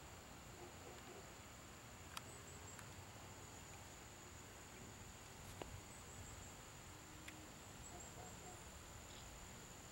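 Faint, steady, high-pitched insect chirring in near quiet, with a couple of soft clicks.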